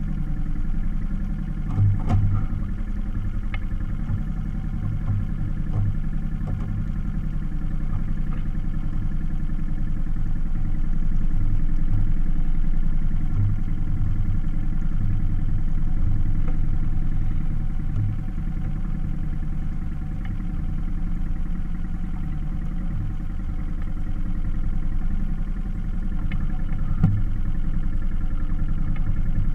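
Small outboard motor on a sailboat running steadily at low speed, a constant drone with a slight pulsing beat and a few faint knocks.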